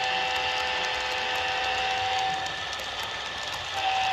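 Onboard sound of an HO-scale Athearn Genesis Amtrak P42 model locomotive: a steady chord of several held tones over a hiss. One of the tones drops out about two and a half seconds in and returns near the end.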